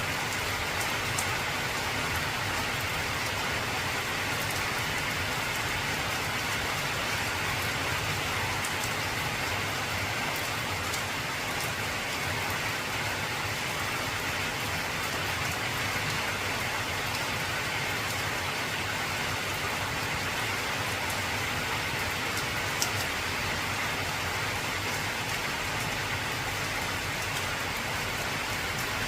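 Steady heavy rain drumming on an old corrugated zinc roof, with scattered sharper drop ticks; one stands out about 23 seconds in.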